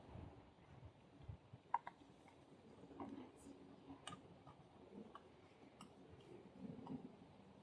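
Near silence broken by a few faint, scattered clicks, the sharpest a double click a little under two seconds in.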